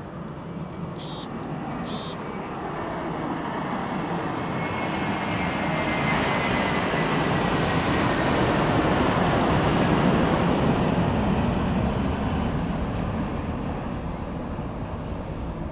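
The twin jet engines of an Airbus A330 at takeoff power. The roar swells to its loudest about ten seconds in and then fades, and a high whine drops in pitch as it grows. Two short hisses come about one and two seconds in.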